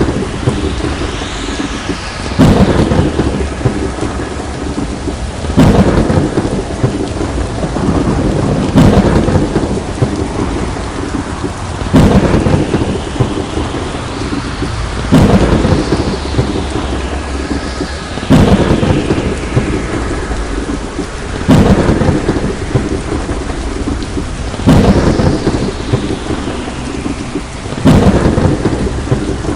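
Thunderstorm: steady heavy rain with a sudden loud clap of thunder about every three seconds, each one trailing off into a rumble.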